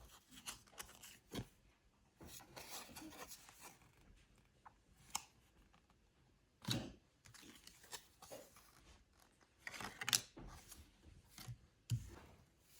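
Quiet handling noises: scattered light clicks, rustles and short scrapes, with a louder scrape or rustle about two-thirds of the way in and another near the end.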